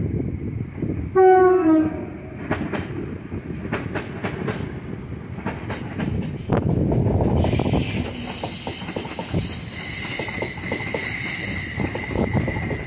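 A Class 317 electric multiple unit sounds a short two-tone horn about a second in, stepping down from the higher note to the lower. Its wheels then click over rail joints as it runs past below. From about halfway a high, ringing squeal of train wheels sets in and holds to the end.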